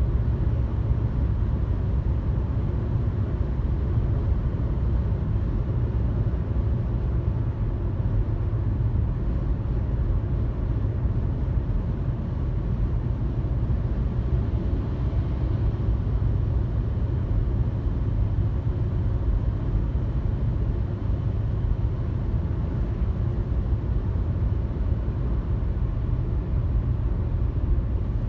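Steady low rumble of a car cruising on a highway: engine and tyre road noise, with no change in pace.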